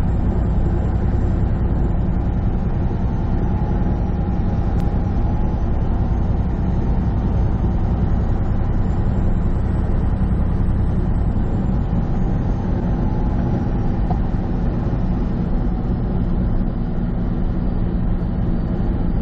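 Semi truck's diesel engine running steadily under road noise, heard from inside the cab while cruising on the highway. There is a single sharp click about five seconds in.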